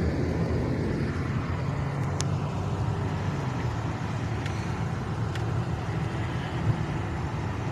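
Car engine running steadily, heard from inside the car: a low, even hum with a light rushing noise and a few faint clicks.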